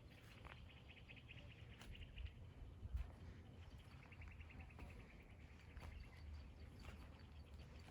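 Faint songbird trills: a rapid trill lasting about two seconds, then a second one that falls slightly in pitch, over a low rumble with a few soft clicks.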